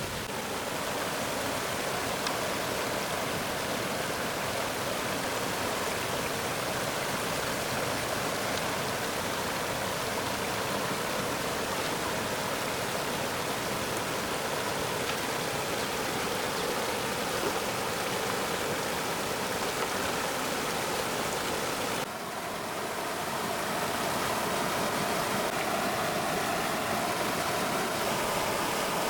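Steady rush of flowing stream water, an even hiss-like wash with no pauses. The sound changes abruptly about three quarters of the way through and then carries on much the same.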